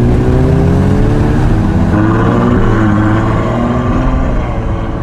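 Ferrari 812's V12 engine running close by, its pitch climbing gradually and dipping briefly about three seconds in.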